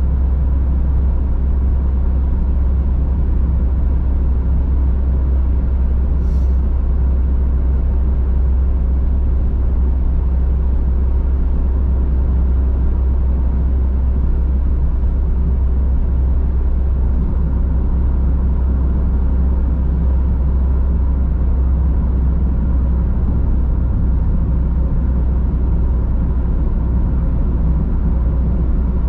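Steady in-car road noise while driving at cruising speed: a deep, constant low rumble of tyres and engine with an even hiss above it. A faint, brief tick sounds about six seconds in.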